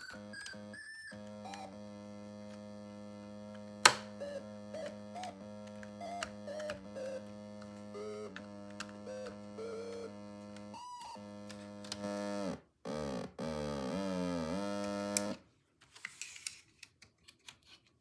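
Snap Circuits optical theremin sounding through its speaker: a steady electronic buzz with short beeps that jump up and down in pitch as the light on its sensor changes. A sharp click comes about 4 s in. Later come swooping pitch glides, then the tone cuts off and a few small clicks follow.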